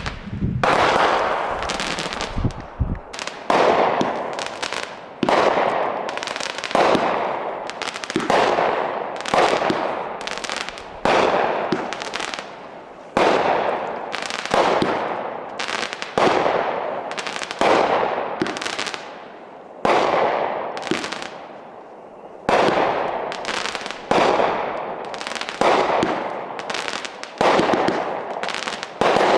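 Fireworks going off in a steady series, one bang about every second and a half, each trailing off over about a second.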